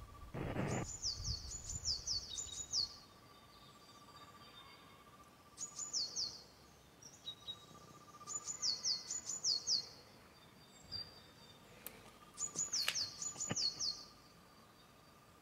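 A songbird singing phrases of about four quick, high, falling whistles, repeated roughly every four seconds. A faint steady tone runs underneath.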